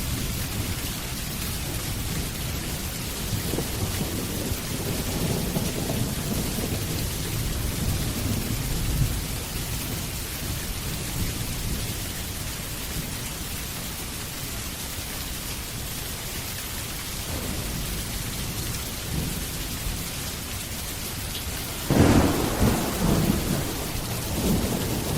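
Steady heavy rain with low rolling thunder, and a sharper, louder thunderclap rumbling near the end.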